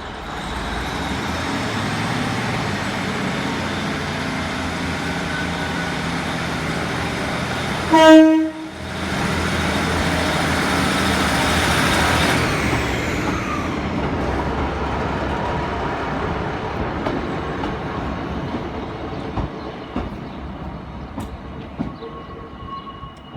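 Class 150 diesel multiple unit departing under power, its engines and running noise steady. A short blast of the two-tone horn about eight seconds in is the loudest moment. The train's noise then slowly fades as it pulls away.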